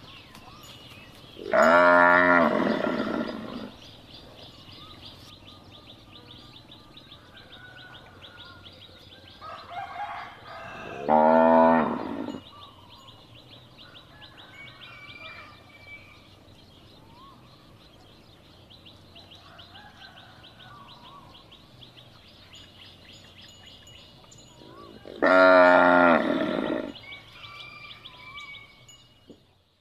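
Cow mooing three times, each a long loud call with a clear pitch, spread about ten seconds apart. Between the moos, a steady high rapid pulsing and a few faint bird chirps continue in the background.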